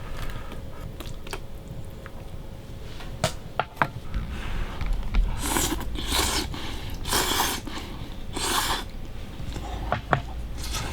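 Someone eating hot noodles: a few sharp clicks of utensils against a bowl, then four short, airy slurps.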